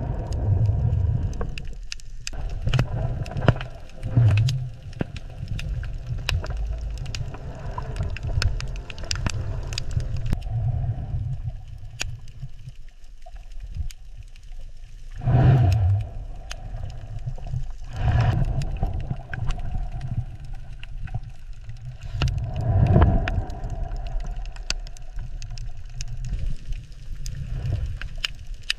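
Underwater water ambience: a low, rumbling wash of water that surges more strongly three times in the second half, with scattered small clicks throughout.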